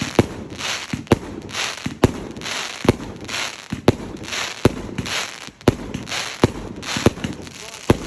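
Fireworks going off in quick succession: about ten sharp bangs, roughly one a second, each followed by a short crackling hiss.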